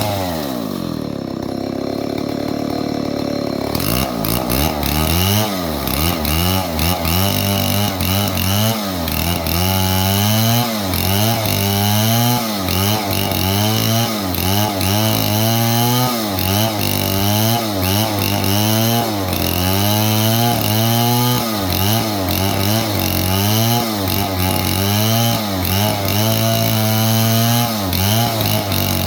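Stihl 070 two-stroke chainsaw engine dropping to idle right at the start. About four seconds in it begins revving up and down over and over, roughly once a second.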